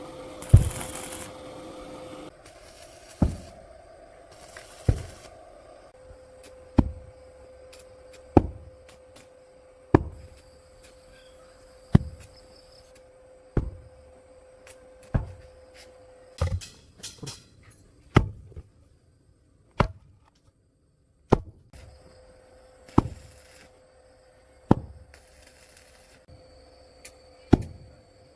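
A heavy hand tool striking the ground in a steady working rhythm, one sharp thud about every second and a half, as in digging or tamping soil.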